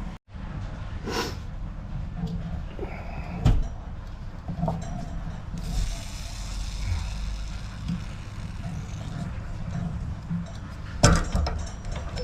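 Scattered knocks and clatters from work on the water heater's copper pipework as the old valve is taken off, over a steady low hum, with a few seconds of hiss in the middle.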